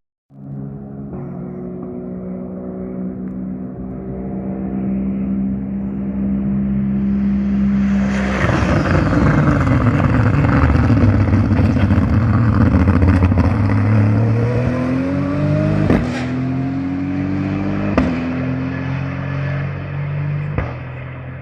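GT race car engines on track: a steady engine note, then a loud pass-by with the pitch falling, then revs climbing repeatedly through the gears with a few sharp cracks.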